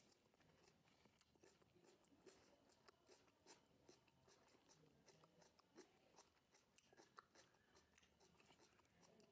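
Faint close-up chewing and biting of a raw tomato: soft, irregular mouth clicks and crunches, several a second.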